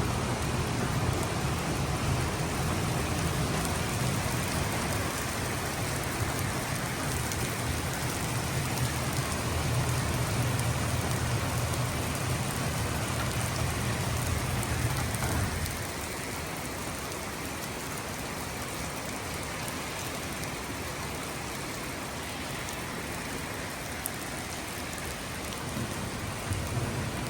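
Steady rain falling, an even hiss of drops. A low rumble under it stops about halfway through and returns near the end.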